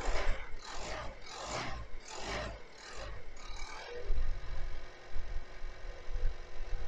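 Diesel car engine idling, with a run of rhythmic rubbing strokes, about two a second, over the first four seconds; after that only the steady idle hum remains.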